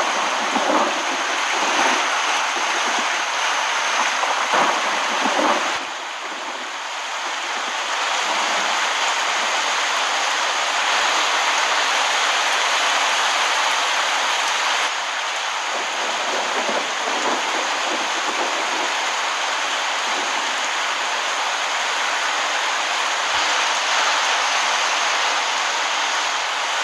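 Heavy rain falling, a dense steady hiss that shifts in level about six and fifteen seconds in.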